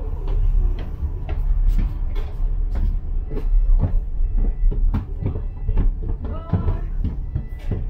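Inside a moving bus: steady low engine and road rumble, with frequent irregular rattles and knocks from the bodywork.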